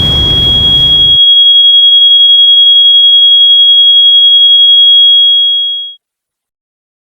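The loud noise of a train crash cuts off about a second in, leaving one steady high-pitched ringing tone that fades out near the end.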